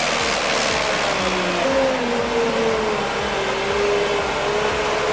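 Valmet 840.3 forwarder's engine running under load in deep mud, its pitch wandering up and down over a steady rushing noise.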